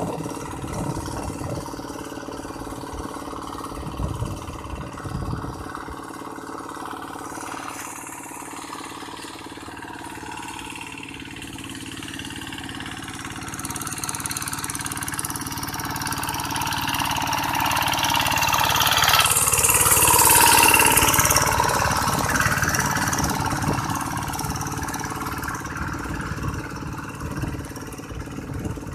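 Tractor engine running steadily, growing louder to a peak about two-thirds of the way through, with a hiss at its loudest, then easing off again.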